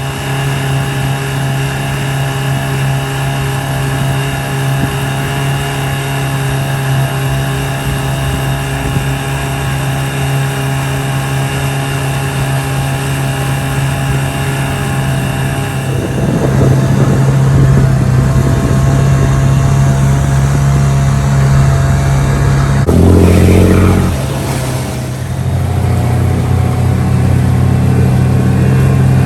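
Ford Sabb marine diesel engine running steadily. It grows louder about halfway through, and its note changes briefly a few seconds before the end.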